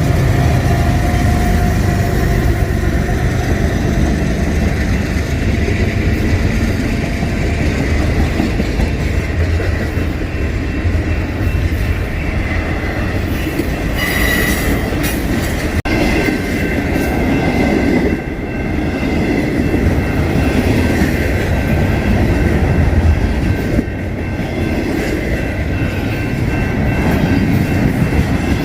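BNSF double-stack intermodal freight train passing close by: a steady rumble of steel wheels on rail, with thin, high wheel squeal over it. A brief sharp noise comes about halfway through.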